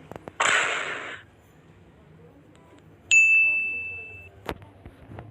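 A short hissing burst, then a single bright ding sound effect that rings out and fades over about a second, followed by a click.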